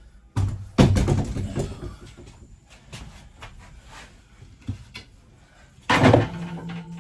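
RV refrigerator being manhandled out of its cabinet: a heavy thud with clattering about half a second in, small knocks, then a second heavy thud near the end.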